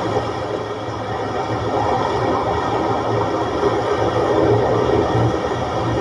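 Steady rushing noise of wind and rough sea surf, waves of 1 to 2 metres running against the shore.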